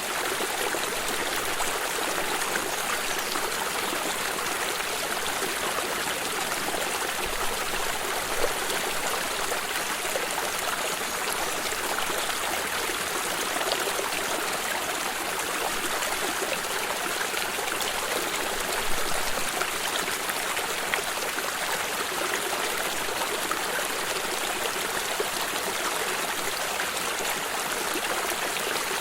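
Stream of water running steadily over rocks, a continuous rush with small splashes and trickles.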